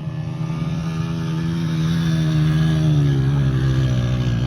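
Motorcycle engine running under throttle, growing steadily louder as it nears; its pitch sags a little past the middle and picks up again near the end.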